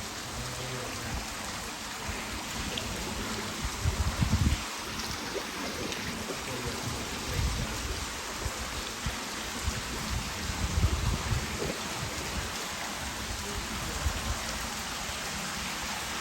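Steady hiss and patter of meltwater dripping and falling from glacier ice, with a few low bumps on the microphone about four, seven and eleven seconds in.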